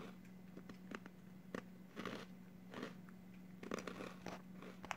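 A crunchy Nongshim Honey Twist snack being bitten and chewed, a run of irregular, faint crunches, with a steady low hum underneath.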